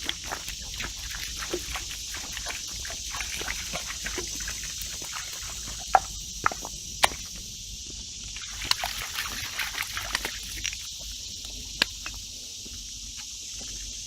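A steady, high-pitched chorus of cicadas, with footsteps and scattered clicks across a stony creek bed, and a few sharp knocks about six and seven seconds in and again near twelve.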